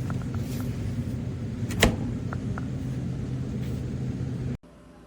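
Steady low rumble of a vehicle in motion, with one sharp knock about two seconds in. The rumble cuts off suddenly near the end, leaving a much quieter room.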